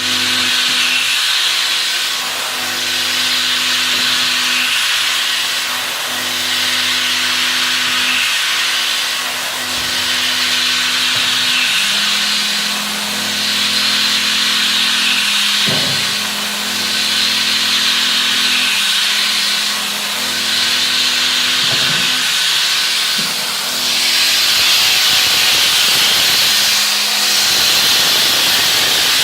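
CNC milling machine cutting at high speed: a loud, steady hiss that swells and eases about every two seconds, over steady motor hums that shift pitch a few times.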